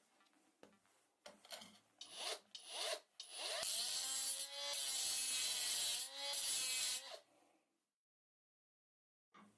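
Parkside mini rotary grinding tool fitted with a worn-down grinder disc, grinding in a few short touches and then one steady stretch of about four seconds. Its whine dips twice as the disc bites into the work, and it stops about seven seconds in.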